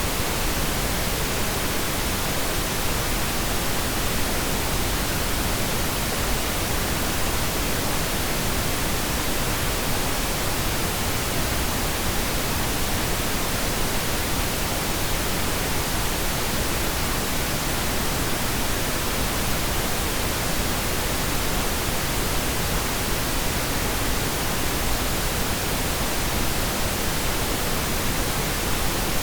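Steady pink noise: an even, unchanging hiss with a deeper rumble underneath, with no drops, clicks or changes in level.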